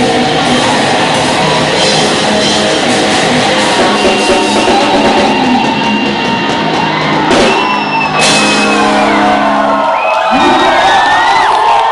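Loud live rock band with shouted vocals, with two sharp crashes about seven and eight seconds in; about ten seconds in the music gives way to the crowd shouting and whooping.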